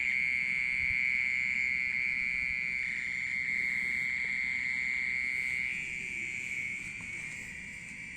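Unseen insect inside a flower pot, most likely down in the soil, giving a loud, continuous high-pitched ringing buzz that is steady in pitch and does not pulse like a cricket's chirp. It sounds like a water-pump motor and eases off slightly near the end.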